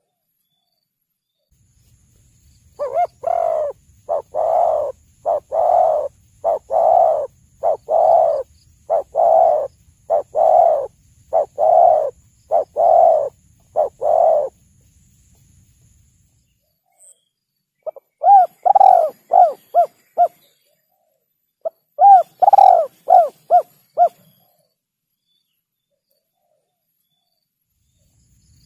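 Spotted dove (tekukur) cooing. A long run of steady, evenly spaced coos lasts about twelve seconds. After a pause come two short phrases of quicker coos that shorten toward their ends.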